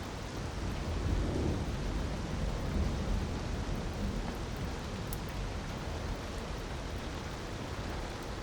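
Steady rushing of a waterfall mixed with a few faint crackles from a wood fire. A low rumble swells about a second in and eases off by about four seconds.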